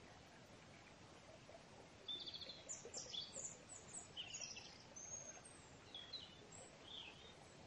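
Faint, high-pitched chirping of small birds: a quick run of short chirps starting about two seconds in, then a few scattered chirps, over a quiet background hiss.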